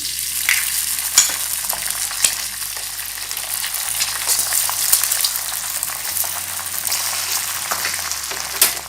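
Egg sizzling in a pan with a little hot oil, a steady frying hiss with frequent crackling pops and a few louder spits.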